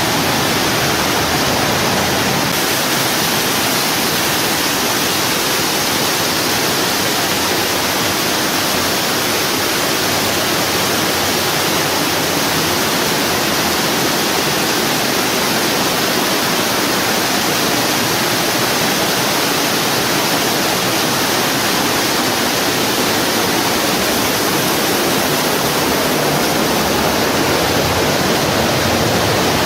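Steady, loud rush of falling water, an even hiss with no breaks.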